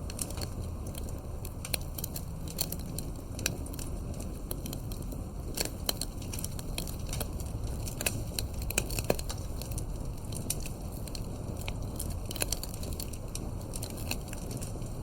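Wood campfire crackling: irregular sharp pops and snaps, several a second, a few louder than the rest, over a steady low rumble of wind.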